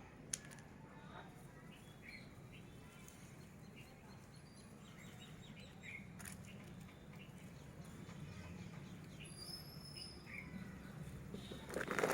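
Faint, scattered bird chirps over a low steady hum, with a sharp click just after the start and another about six seconds in.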